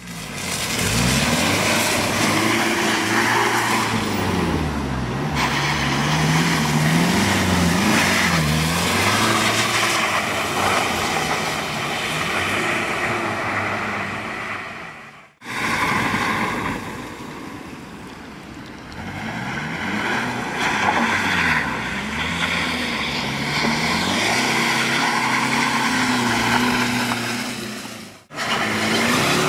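BMW E46 320d's four-cylinder turbodiesel revving up and down over and over as the car is drifted, under a loud hiss of spinning tyres throwing up wet slush. The sound drops out briefly about halfway through and again near the end.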